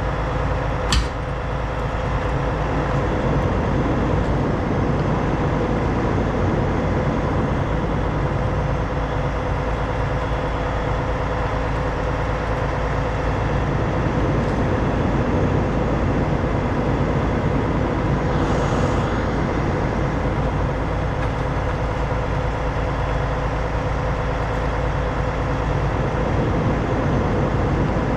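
Heavy rotator wrecker's diesel engine running steadily under winching load, with a sharp click about a second in and a brief hiss later on.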